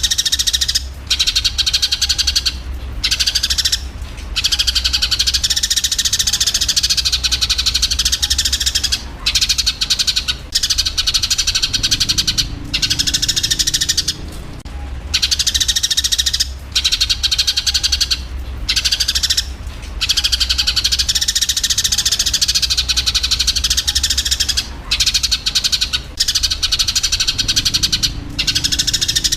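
Eurasian tree sparrows chattering in rapid, dense chirps, the agitated calls of fighting sparrows, in long runs broken by short pauses every few seconds. A steady low hum runs underneath.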